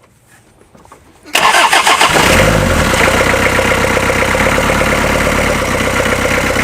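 Toyota 2C 2.0-litre four-cylinder diesel engine of a Toyota Noah KR42 cold-started: the starter cranks briefly about a second in, the engine catches a moment later and settles into a steady, even idle.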